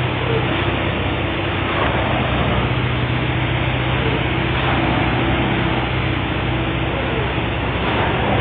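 Heavy diesel railway machine running steadily, with a constant low hum under a dense, even rushing noise.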